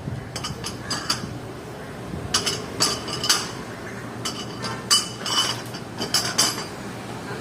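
Irregular metallic clicks and clinks from metal tools being worked during a tubeless car tyre puncture repair, coming in short clusters.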